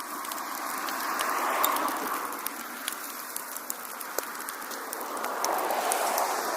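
Wood fire in a fireplace crackling with scattered sharp pops over a steady hiss that swells twice, about a second and a half in and again near the end.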